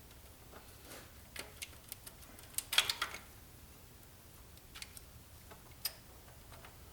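Light metallic clicks and clinks of hand work on an engine's timing chain and cam sprockets, as the chain is moved to line up the timing marks. A short clatter of clicks comes about three seconds in, and a single sharp click comes near the end.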